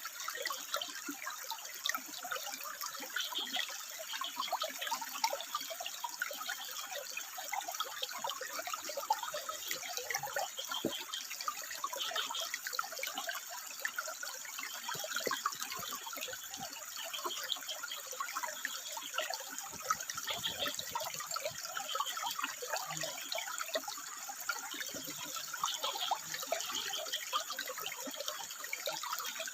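Water trickling and splashing over rock in a steady, bubbling run.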